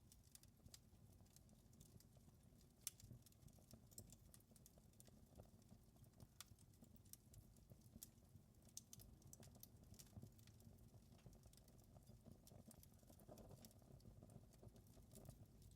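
Faint fireplace fire crackling: irregular small pops and snaps over a low steady rumble, with one louder pop about three seconds in.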